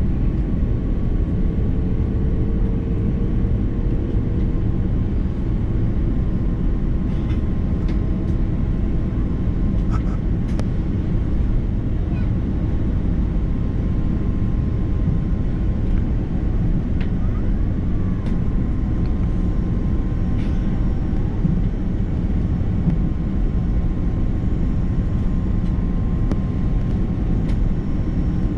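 Steady cabin noise inside an Airbus A330-300 airliner: a constant low rumble of engines and airflow, with a faint steady whine above it and a few faint clicks.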